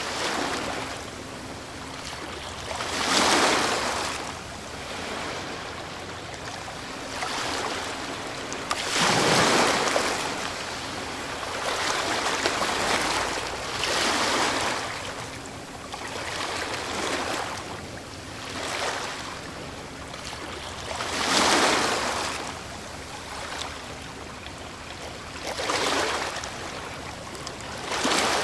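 Ocean waves breaking on a shore: repeated surges of surf every few seconds, each rising to a crash and washing back into a steady hiss between them.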